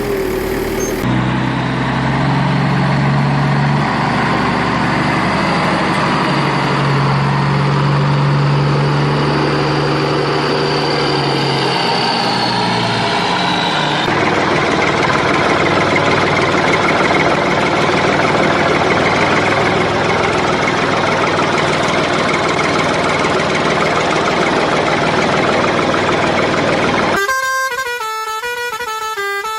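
Vehicle noise with long held horn-like tones over a steady mechanical din. About halfway through the tones stop and leave a dense rumble. Near the end a short stepped tune begins.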